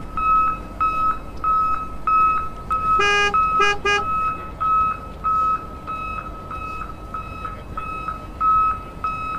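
Electronic beeping from a toy vehicle's sound chip: a high, steady beep repeating about three times a second. Three short, lower horn toots come in quick succession about three seconds in.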